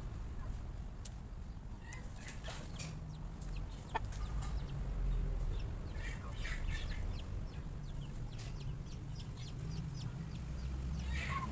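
Chickens clucking in short scattered calls, a few at a time, with a cluster near the end, over a steady low rumble.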